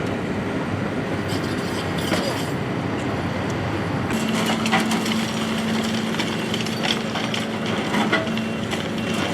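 Rescue work in collapsed building rubble: a steady rumble of activity with repeated clattering knocks of debris, and a steady hum joining about four seconds in.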